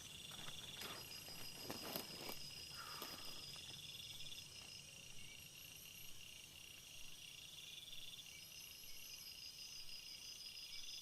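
Forest insects, crickets and similar, trilling faintly and steadily at several different pitches, one of them in bouts of a few seconds. A few soft clicks or knocks come in the first three seconds.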